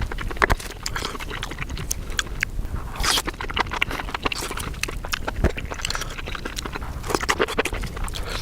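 Close-miked chewing of a mouthful of spicy cooked mushroom, with irregular clicks and crackles throughout and louder bursts about three seconds in and again near the end.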